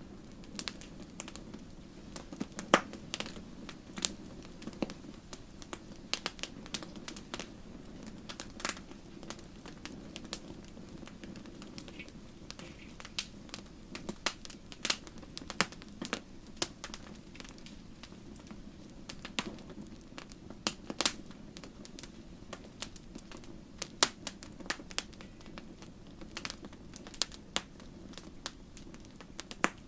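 Wood campfire burning: a steady low rush of flames with irregular sharp crackles and pops from the burning wood, a few of them louder.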